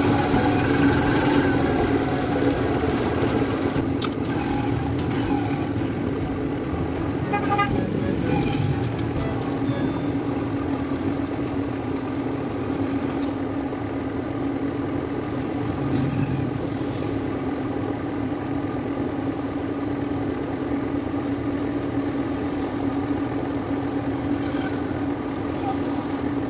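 Motorcycle tricycle's engine running steadily under way, heard close up from the driver's seat.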